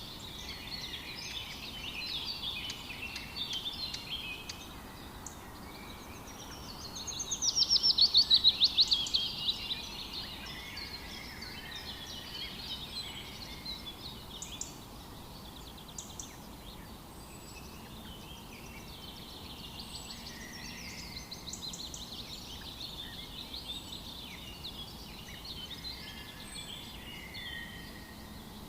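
Wild birds singing and calling, with a loud, rapid trill of quick repeated notes that falls in pitch about seven seconds in and lasts some three seconds.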